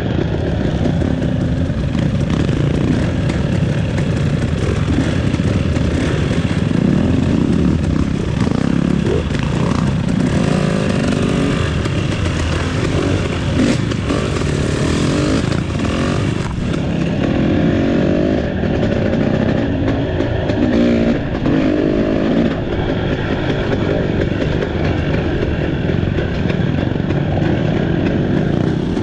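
Off-road trail motorcycle engine running under way, its pitch rising and falling again and again with throttle and gear changes.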